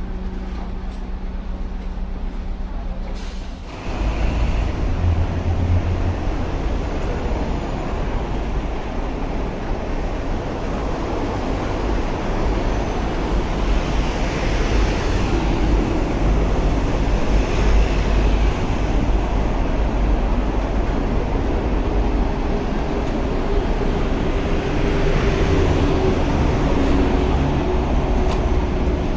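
Diesel engine of a Scania K310UD double-decker bus, a 9.3-litre five-cylinder, with a steady low hum at first. About four seconds in it suddenly gets louder, and the engine and road noise run on with small swells as the bus drives.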